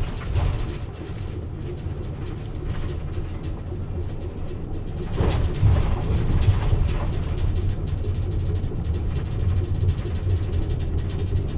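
Car cabin noise while driving: a steady low rumble of engine and tyres on the road, with a few faint knocks a little past the middle.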